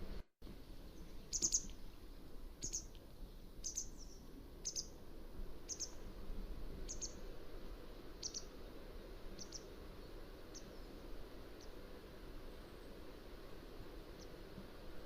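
Mountain wagtail calling: a series of short, sharp, high chirps about once a second, growing fainter after about ten seconds. A brief dropout just at the start.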